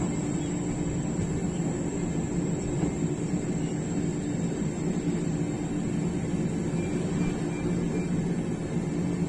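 Steady running noise of a moving train heard from on board: an even rumble with no breaks, and a faint steady high whine above it.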